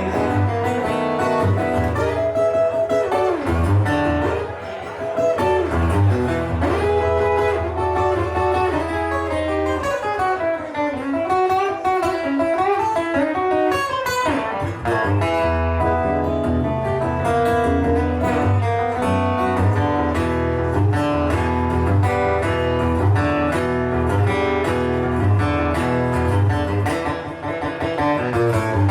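Blues guitar playing an instrumental break, with bent notes sliding up and down over a steady low accompaniment.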